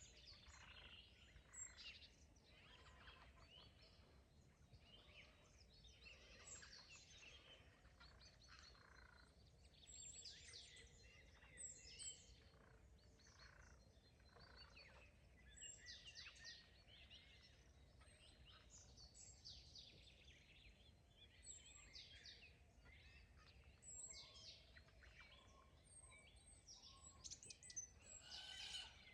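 Faint chorus of several songbirds singing, with many short chirps and trills overlapping and a louder run of calls near the end, over a low steady outdoor rumble.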